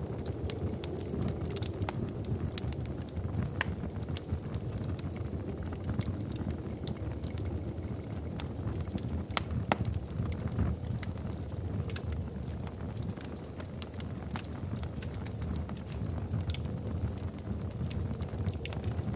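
Wood fire in a fireplace crackling, with frequent sharp pops and snaps over a steady low roar of the flames.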